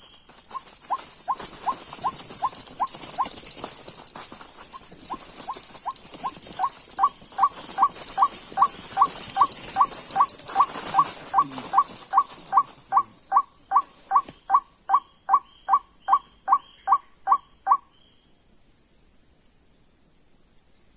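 White-breasted waterhen calling: a long series of short, evenly repeated notes, about three a second, growing louder and ending abruptly about three seconds before the end. A high steady hiss runs beneath the calls through the first half.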